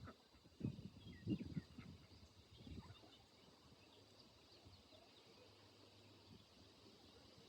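Ducks and chickens feeding, heard faintly: a few short, soft low sounds in the first three seconds, with scattered faint high chirps.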